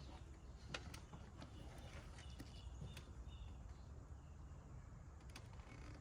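Quiet outdoor ambience: a faint low rumble with a few light clicks and some faint, short bird chirps.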